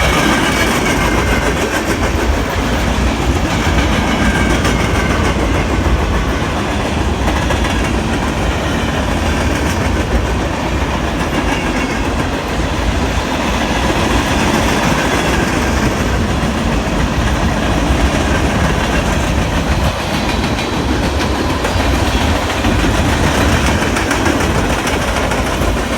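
BNSF freight train's cars rolling past, a steady rumble with the clickety-clack of wheels over the rail joints.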